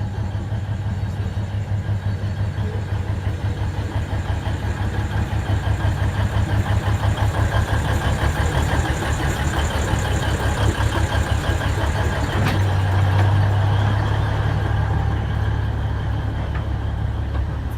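Alishan Forest Railway train's locomotive engine running, with a fast rhythmic pulsing through the middle and a sharp click about twelve seconds in, after which a steady low hum grows louder.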